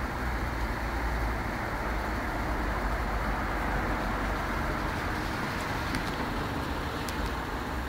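Dump truck's engine idling steadily with a low rumble, under an even background hiss.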